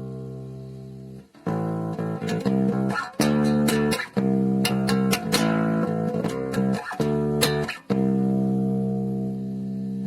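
Plucked electric strings played through a SONICAKE Boom Ave multi-effects pedal: ringing notes and chords with short breaks about a second in, at four seconds and near eight seconds, ending on a long held chord.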